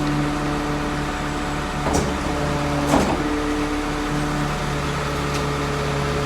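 Rear-loader garbage truck running, its engine giving a steady hum with a held whine over it, and two sharp knocks about two and three seconds in.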